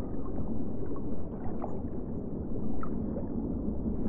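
Muffled gurgling and splashing of water in a shallow stony stream as a platypus paddles at the surface, with small scattered splashes over a steady wash.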